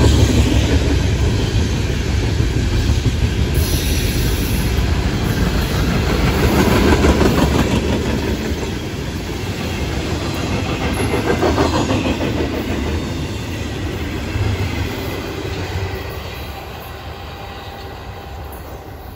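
Florida East Coast Railway freight train cars rolling past, a steady rumble of wheels on the rails that fades over the last few seconds as the end of the train goes by.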